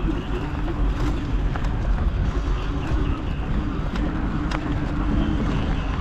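Wind buffeting the microphone over road and tyre noise while riding a motorized spoked bike, with a steady motor hum that fades in and out.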